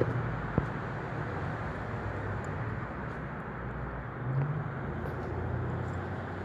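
Wind blowing across the microphone, a steady rushing noise over a low hum, with a short click about half a second in and a brief swell about four seconds in.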